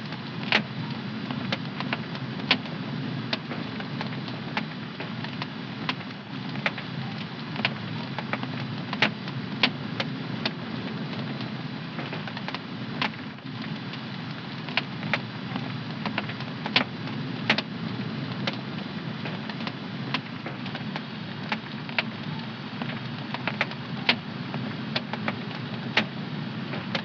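Wood fire in a home fireplace crackling: irregular sharp pops and snaps, several a second, over a steady low rush of the flames.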